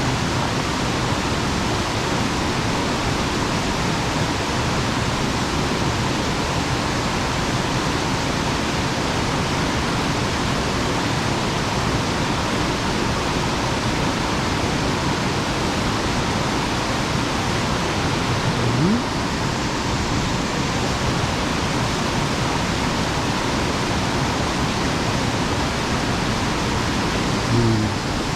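Water pouring over an erosion-control dam into the pool below, a steady rushing roar of falling water.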